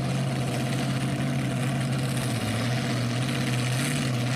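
Super modified four-wheel-drive pulling truck's engine running steadily at high revs, one even droning note that holds its pitch.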